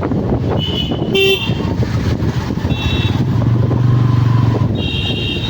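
Street traffic heard from a moving motorcycle, with several short horn honks about a second in and again around three seconds. A louder, low, steady tone follows for over a second.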